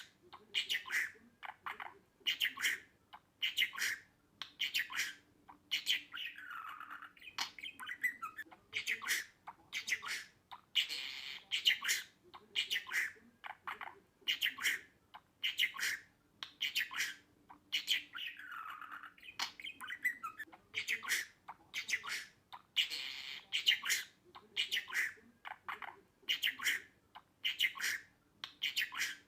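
Budgerigar chirping, squawking and warbling in quick short calls, several a second. The same stretch of calls comes round again about every 12 seconds, as a loop.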